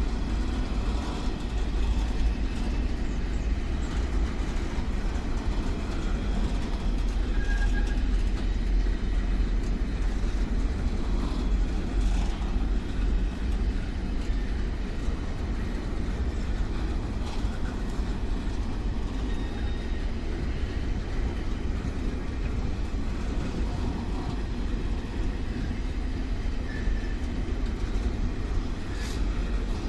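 Railway train running through the station, a steady low rumble that holds without rising or fading.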